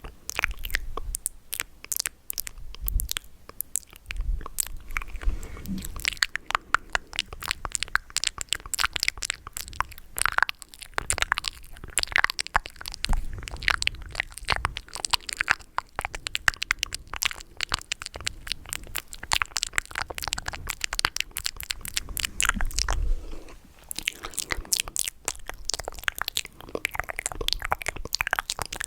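Close-miked ASMR mouth sounds: rapid wet clicks and smacks of lips and tongue, several a second, with a brief lull near the end.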